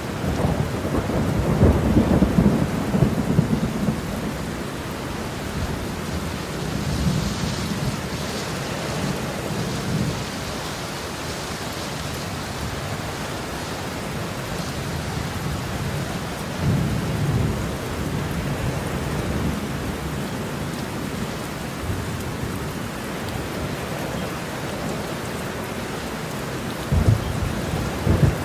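Heavy rain falling steadily, with rolling thunder. The longest and loudest rumble comes in the first few seconds, more rumbles follow about 8 and 17 seconds in, and there is a sharper clap near the end.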